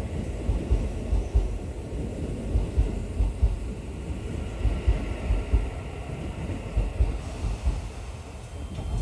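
Interior running noise of a Keio 7000 series commuter train: a steady low rumble from the wheels and bogies, with irregular low thumps and a faint steady hiss.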